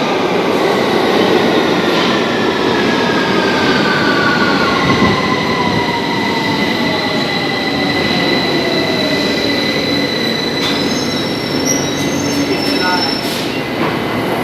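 Victoria line 2009 Tube Stock train running through the station and slowing down: loud rumble of wheels on rail, with a motor whine falling steadily in pitch and high steady wheel squeal.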